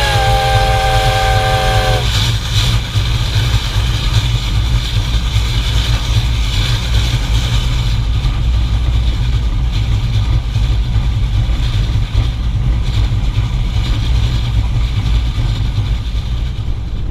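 Reading & Northern 425 steam locomotive sounding its chime whistle, which ends about two seconds in. After that comes steady, loud running noise from the locomotive and train.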